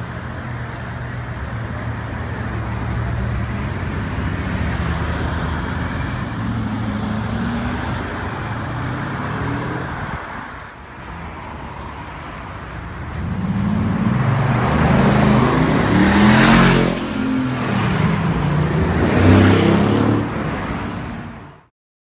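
Bugatti Veyron's quad-turbo W16 engine running at low revs amid street traffic. After a cut about eleven seconds in, it is louder, revving up and down several times as the car accelerates past, and it fades out just before the end.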